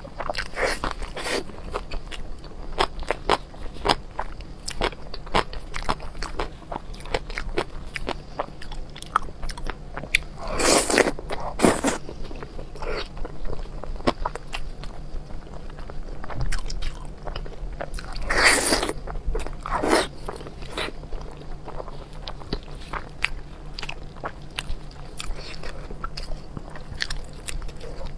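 Close-miked eating: biting and chewing with many small crunches and wet clicks, and two louder spells of crunching about eleven and nineteen seconds in.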